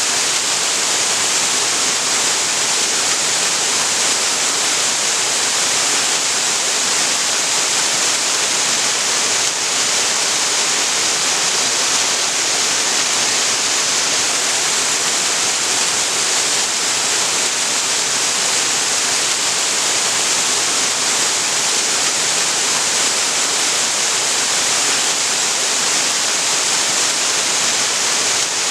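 Waterfall pouring steadily into a creek, a constant, even rush of falling water with no breaks or changes.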